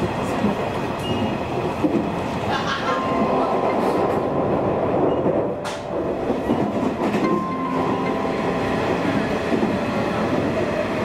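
Nishitetsu Tenjin Omuta Line electric train running at speed, heard from inside the car: a steady rumble of wheels on rail with a few sharp rail-joint clicks. A steady high whine comes in a few seconds in and again later.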